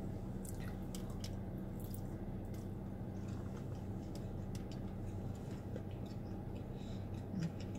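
Close-up chewing of a mouthful of noodles, with small wet mouth clicks and squishes scattered through it, over a steady low hum.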